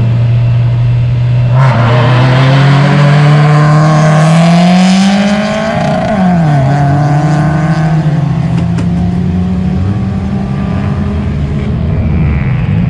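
Car engine accelerating hard. Its pitch climbs for several seconds, drops sharply at a gear change about six seconds in, then climbs again; the sound gets suddenly louder and fuller just under two seconds in.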